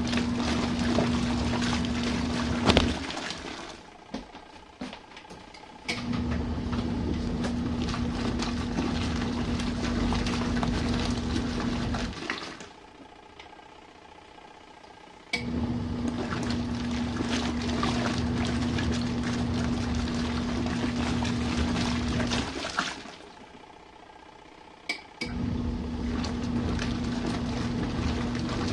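RV washing machine running its standard-mode main wash: the motor hums and churns the water for six to seven seconds at a time, with about three seconds of pause between runs, near three, twelve and twenty-three seconds in.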